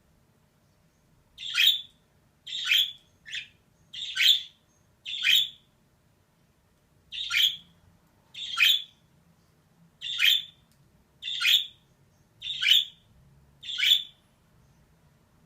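Female budgerigar giving a string of short, harsh chirping calls, about one a second, with a pause of about two seconds partway through.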